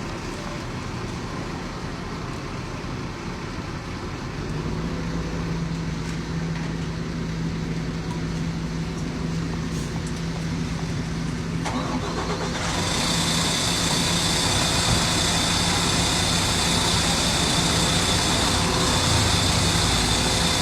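Diesel engines of heavy equipment running steadily. The engine note strengthens about four seconds in, and a loud hiss with a high steady whine joins about twelve seconds in.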